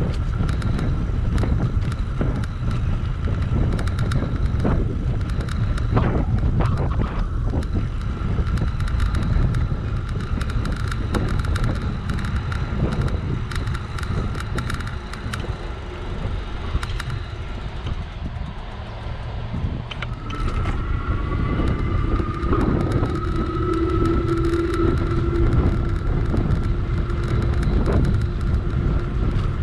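Wind rumbling on the microphone of a moving electric bike, with frequent knocks and rattles from the ride and a steady faint whine. About two-thirds of the way in, a second, slightly rising tone and a lower hum come in.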